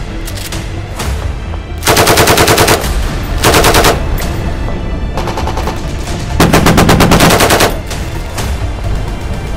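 Four bursts of rapid automatic machine-gun fire, each lasting about a second and starting about two seconds in, over background music. It is a gunfire sound effect.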